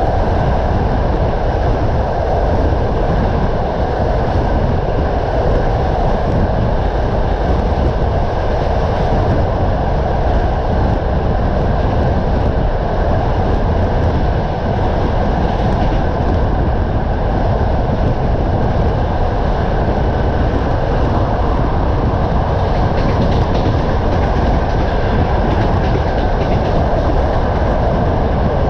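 Passenger train running steadily along the line, heard from aboard a carriage: a continuous rumble of wheels on the rails.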